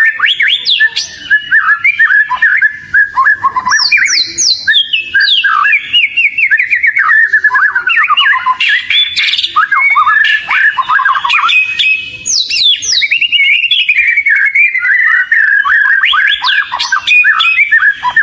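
Oriental magpie-robin (kacer) singing continuously in a long, varied run of rapid whistled notes, trills and falling note series.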